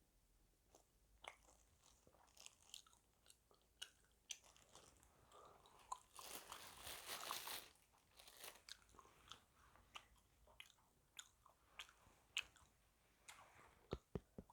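Close-miked eating of KFC fast food: soft crunches and wet chewing clicks, with a denser, louder stretch of crunching lasting about a second and a half just past the middle.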